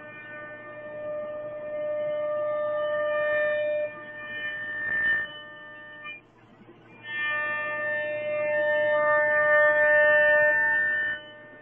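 Yimming 1325C CNC router's motors whining with steady high tones, dropping out near four seconds and again for about a second after six, then coming back louder until shortly before the end.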